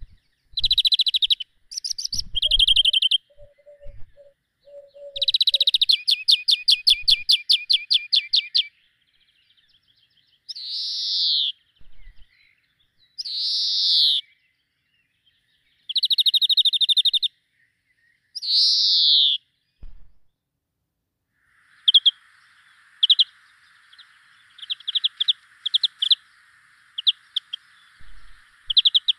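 Small birds singing: bouts of rapid high trills and loud downward-sweeping whistles, turning to short scattered chirps over a faint steady hiss near the end.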